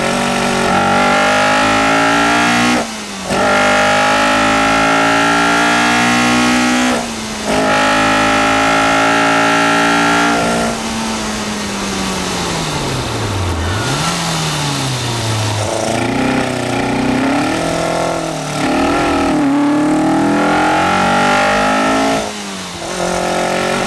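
Caterham R400's four-cylinder Ford Duratec engine heard from the cockpit on track, revving hard through the gears. Brief dips mark upshifts about 3 and 7 seconds in. The revs then fall away under braking, jump with the downshifts, and rise and waver as the throttle is fed back in through the corners, with another shift near the end.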